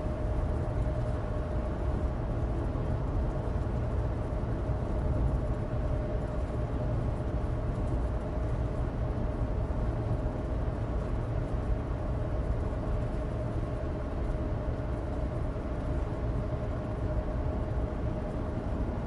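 Cabin noise of a 2016 Suzuki Alto Turbo RS on the move: a steady low drone from its 660 cc turbocharged three-cylinder engine and studless winter tyres on dry road, with a constant faint whine.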